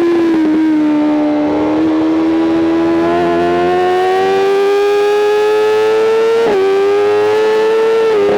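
BMW M 1000 RR's inline-four engine at high revs, its pitch climbing steadily as the bike accelerates, with a quick upshift about six and a half seconds in and another near the end.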